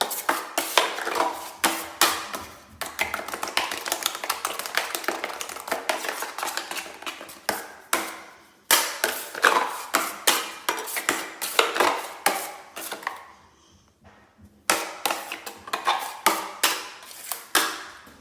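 Metal drywall knife scraping and clacking against a mud pan, stroke after stroke, as quick-set Durabond setting-type joint compound is mixed. The strokes stop briefly about two-thirds of the way in, then resume.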